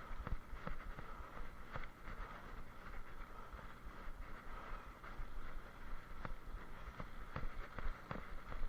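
Wind rushing over a moving camera's microphone, with a low rumble and frequent irregular knocks and rattles as it is jolted along.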